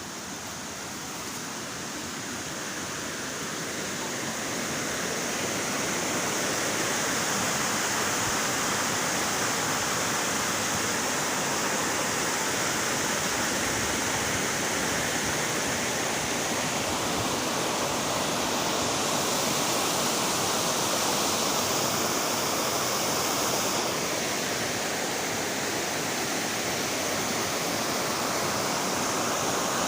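Waterfall: a steady rush of falling water, growing louder over the first several seconds and then holding steady.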